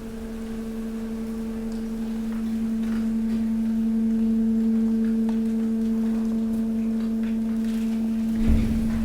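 Hydraulic waste compactor's pump unit humming steadily while pressing mixed waste, growing louder over the first few seconds and then holding. A single low thump comes near the end.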